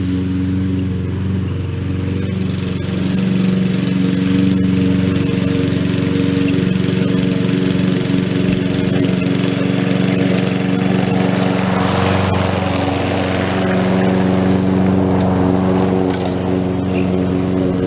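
Walk-behind lawn mower engine running steadily while cutting grass, with a short swell of rougher noise about two-thirds of the way through.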